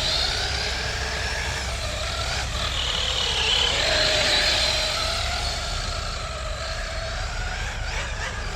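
Electric RC monster truck (FS Racing Tank 6S) driving, its motor and drivetrain whining and rising and falling in pitch with the throttle, over a steady low rumble.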